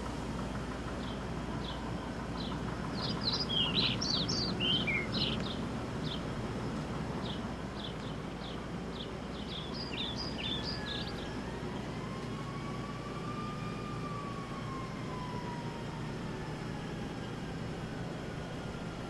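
Small birds chirping in two clusters of quick high calls, over a steady low outdoor background hum. In the second half a faint distant tone rises slowly and then falls away.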